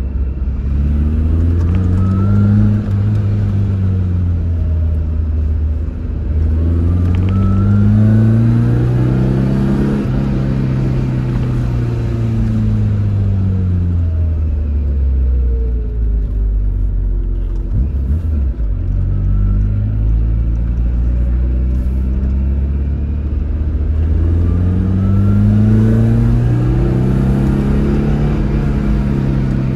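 Tofaş Doğan SLX's four-cylinder engine revving up and down in long swells every few seconds as the car is drifted.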